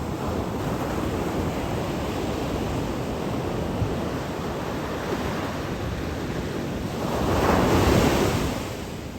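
Sea waves washing onto the shore in a steady rush, with one bigger wave breaking and swelling louder about seven seconds in before it fades. Wind buffets the microphone.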